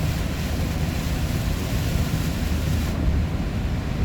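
Steady engine and road rumble inside a moving vehicle's cabin, heaviest at the low end, with the hiss easing off briefly near the end.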